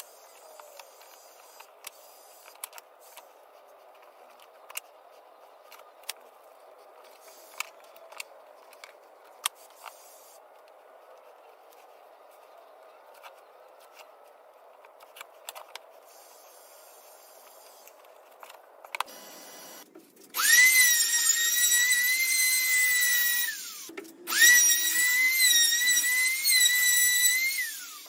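Electric router motor running at a high whine twice for a few seconds each, its pitch sagging as it spins down after each run. Before that, faint scattered clicks and taps of handling.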